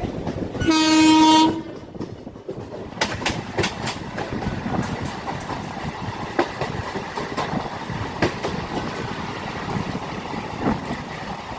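A train horn sounds once for about a second near the start, the loudest thing here. Then the MEMU electric train runs along the track, its wheels clacking over rail joints at uneven intervals under a steady rumble.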